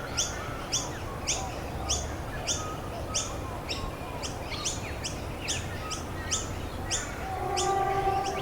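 A songbird repeats the same short, high, downward-sweeping chirp very regularly, about once every 0.6 seconds, over a steady hiss of rain. About seven seconds in, a lower held tone joins it.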